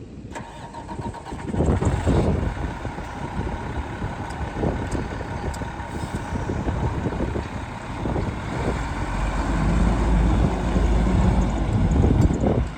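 2000 International 4900 utility truck's diesel engine running, with a loud surge about two seconds in and a deep rumble that grows louder toward the end, then cuts off.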